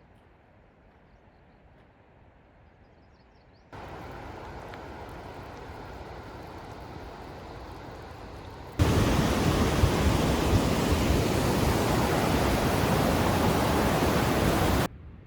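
Steady rushing water, cutting in sharply a few seconds in and then jumping much louder in a second sudden step about halfway through, before stopping abruptly near the end.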